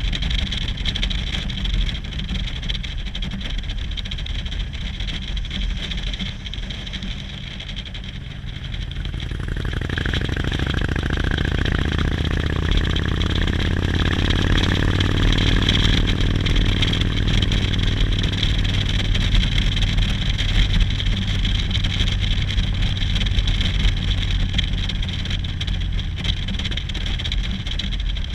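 Motorcycle engine over a steady low rumble: about ten seconds in, the engine grows louder with a rising pitch, stays at its loudest for several seconds, then eases off again.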